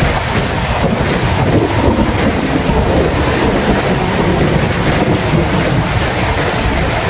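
Steady heavy rain, a dense even hiss, over a continuous low rumble of thunder.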